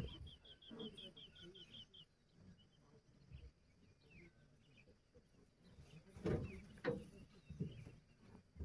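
A bird calls a quick series of about ten short, high, falling notes over the first two seconds, followed by scattered faint chirps. A few low muffled sounds come about six to seven seconds in.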